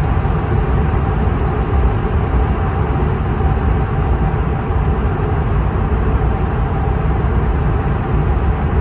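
Steady engine and cabin noise heard from inside an Airbus A220-300, whose engines are Pratt & Whitney PW1500G geared turbofans: a deep, even rumble with a faint steady tone above it.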